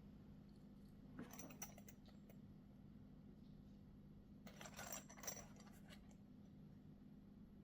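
Faint handling noises from unboxing a folding knife: two short clusters of small clicks and rustles, about a second in and around the middle, over a steady low hum.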